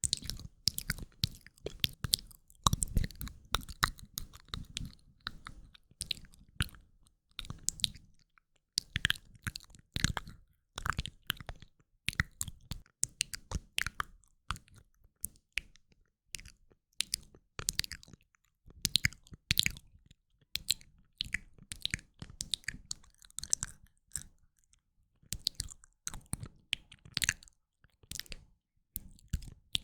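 Close-miked wet mouth sounds: lip smacks and tongue clicks coming in quick clusters separated by brief pauses.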